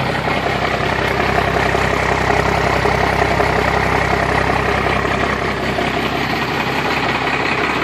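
1993 Dodge Ram's 5.9-litre Cummins 12-valve inline-six turbo diesel idling steadily, still warming up after a cold start.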